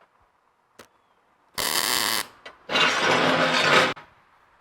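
Arc welder tack-welding the steel frame-mount brackets: two bursts of buzzing crackle, the first about half a second long starting about one and a half seconds in, the second just over a second long.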